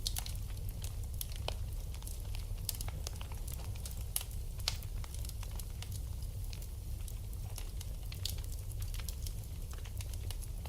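Wood fire in a fireplace crackling, with irregular sharp pops and snaps, a couple of louder pops about four to five seconds in, over a steady low rumble.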